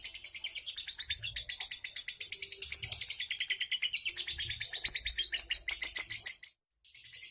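A small caged songbird singing a fast, high-pitched run of chirps and trills that goes on almost without pause, breaking off briefly near the end.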